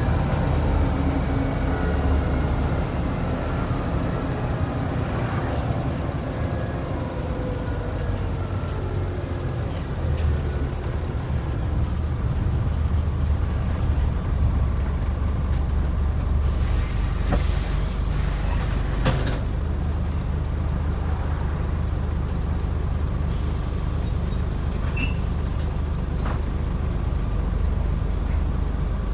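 Scania N94UD double-decker bus with its DC09 diesel engine running. The engine note falls over the first several seconds as the bus eases off, then settles into a steady low rumble. Air hisses from the air brakes twice, past the middle.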